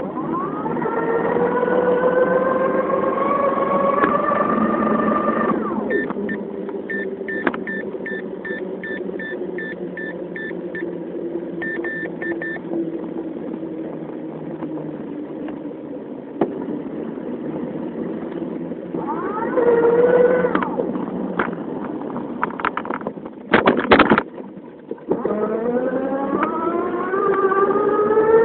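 Motorized bicycle under way: a buzzing drive note that climbs in pitch as it speeds up, eases off, and climbs again near the end. For several seconds in the middle, short beeps repeat about twice a second. A couple of loud knocks come just before the final climb.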